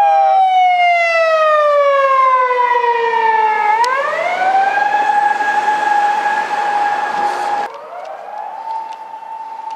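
A siren sounding a single wailing tone that slowly falls in pitch for about four seconds, then rises back and holds steady; near the end it gets quieter and climbs back up to a steady pitch.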